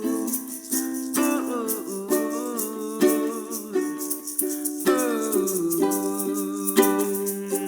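Ukulele strummed in a steady rhythm, about one strum a second, with a shaker and a wordless sung melody over it.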